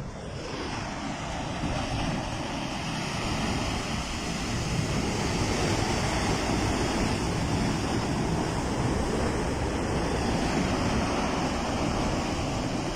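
Rushing floodwater: a steady roar of fast-moving water that swells over the first couple of seconds and then holds.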